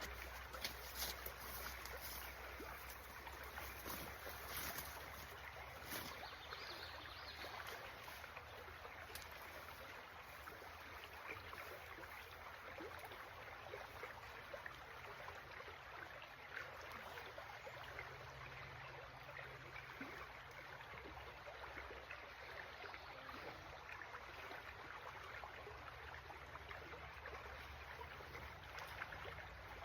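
Stream water flowing steadily, a faint even rush of moving water.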